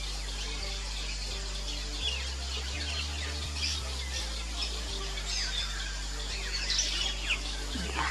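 Fairy martins twittering at their mud-nest colony: many short, quick chirps throughout, over a low, steady background tone.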